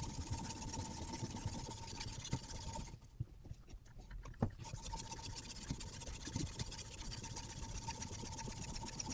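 Sharpening stone on a guided knife sharpening system stroking back and forth along a 1066 carbon-steel bushcraft knife blade, a steady scratchy rasp that stops briefly about three seconds in, then resumes.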